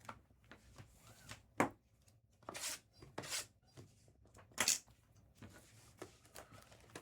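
Sports card boxes and packs being handled and torn open by hand: several short rustling and tearing sounds, a second or so apart.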